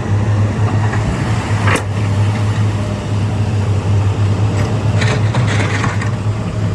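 Heavy diesel earthmoving machine running steadily under work with a deep engine hum, with a single clank about two seconds in and a stretch of metallic clattering around five to six seconds.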